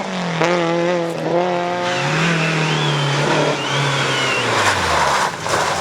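Rally car engine at high revs, dipping briefly twice as it changes gear, then tyres squealing as the car slides through a corner, the engine note falling away near the end.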